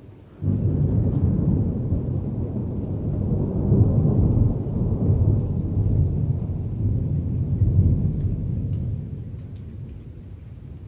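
Thunder: a loud low rumble that starts suddenly about half a second in, rolls on for several seconds and dies away near the end, over steady rain.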